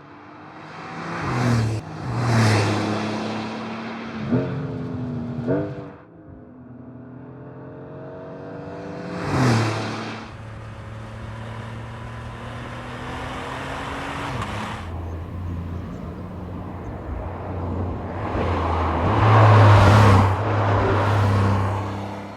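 Porsche 992.2 Turbo S twin-turbo flat-six revving in two short blips, then pulling up through the gears with rising pitch and quick drops at each shift. After one more sharp rev it holds a steady drone, eases off, and swells into a loud surge near the end.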